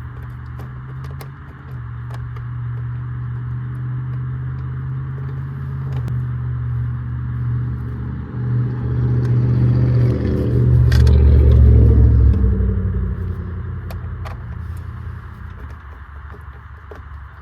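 A motor vehicle's engine rumble that swells to its loudest about two-thirds of the way through and then fades away, like a vehicle driving past. There are a few small clicks over it.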